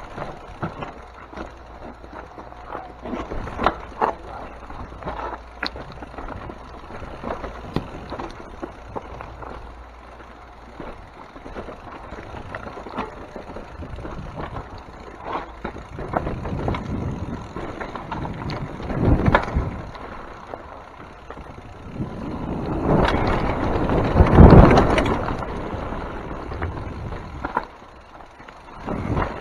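Mountain bike rolling down a wet, rocky trail: tyres crunching over rocks with frequent knocks and rattles from the bike. A louder rushing stretch comes near the end.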